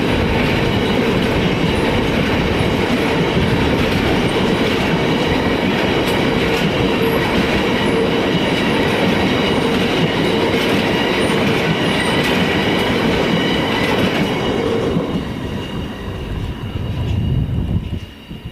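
Freight train wagons rolling past on the track, their wheels clattering over the rail joints with a steady high ringing. The noise stays steady and then falls away about fifteen seconds in as the train passes.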